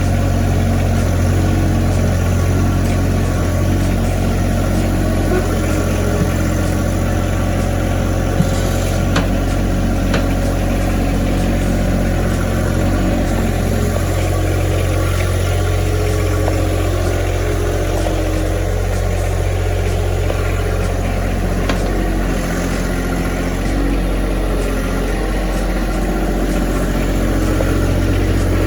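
Tractor engine running steadily, with a small shift in its note about three quarters of the way through.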